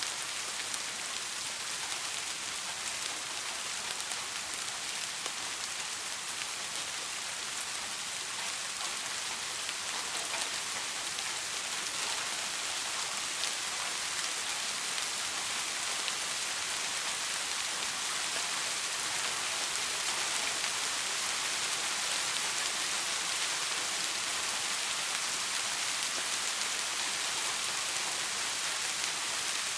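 Steady soft rain falling on a surface, an even hiss with many fine drop ticks, growing slightly louder over the stretch.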